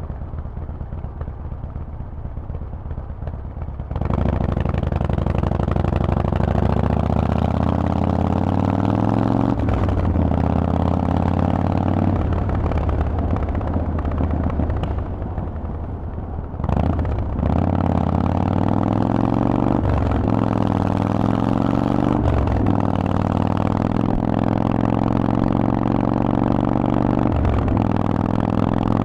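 Harley-Davidson Forty-Eight's 1200 cc V-twin through a Vance & Hines exhaust, heard from the rider's seat. It runs low at first, then opens up about four seconds in. It pulls through a series of upshifts, each a short break in the engine note, with an off-throttle lull in the middle.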